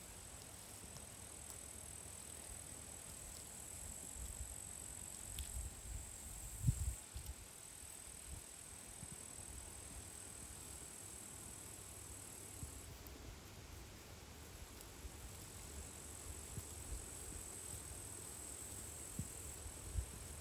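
Crickets trilling steadily at a high pitch, with low rumbling bumps underneath and one louder thump about seven seconds in.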